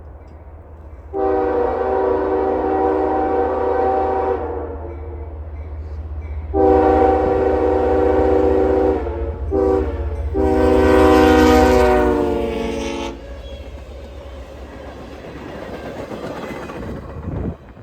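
Diesel locomotive's multi-chime air horn blowing the grade-crossing signal: two long blasts, a short one and a final long one, the last dropping slightly in pitch as it passes. Under and after the horn comes the low rumble of the passing train, which cuts off near the end.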